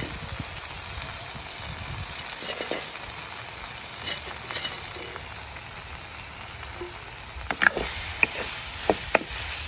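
Dried fish, onions, tomato and potato sizzling in a clay pot. Near the end a wooden spatula stirs the mix, knocking and scraping against the pot several times.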